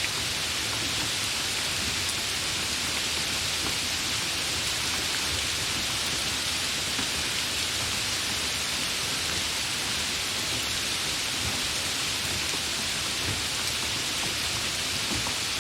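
Steady, even rain: a continuous hiss of drops with no let-up or single loud strike.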